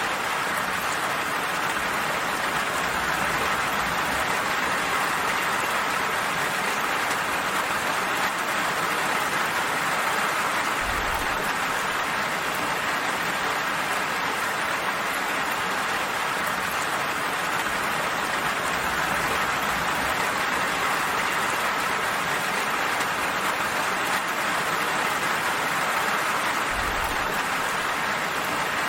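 Steady, even rain falling, a gentle hiss of drops. A brief low thump comes twice, about sixteen seconds apart.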